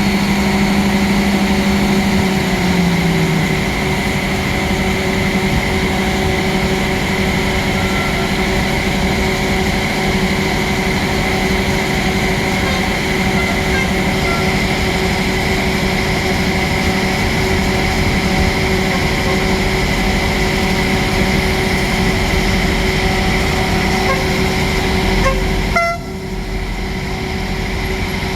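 Passenger train's steady mechanical drone: several steady hums over a rumbling noise, with the lowest hum stepping down in pitch a couple of seconds in. Near the end the higher sounds drop away abruptly and the overall level dips.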